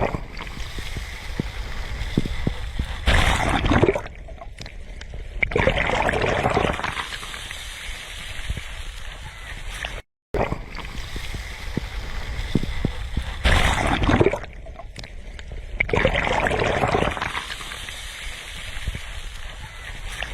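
Sea waves breaking and washing up the shore, swelling four times for a second or two each. The sound cuts out for a moment about halfway through.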